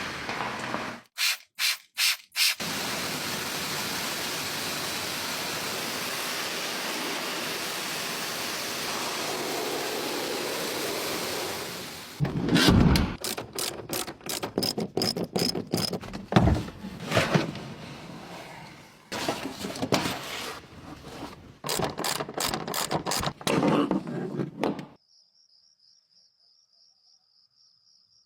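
Car-wash water spray: a steady hiss for about ten seconds, then a string of short, choppy bursts of spraying and rubbing noise. It ends in near silence with a faint high whine.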